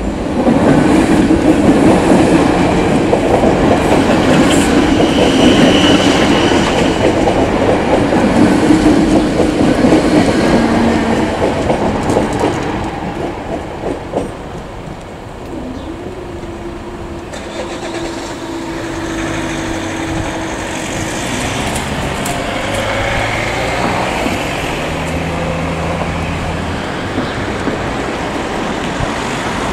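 Irish Rail 8100 class DART electric train passing through a level crossing, its wheels running over the rails loudly for about the first twelve seconds, then fading away. Quieter road traffic follows as cars move over the crossing near the end.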